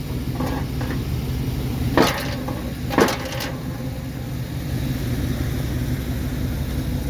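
1994 GMC Yukon's engine running steadily under load as its plow blade pushes into a tree. About two and three seconds in come two sharp smacks of tree wood striking the truck.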